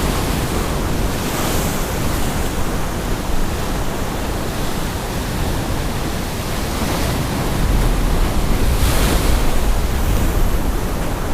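Rough storm surf crashing and washing around a rock jetty, with wind buffeting the microphone in a low rumble. The surf swells louder about a second and a half in, and again around nine seconds in.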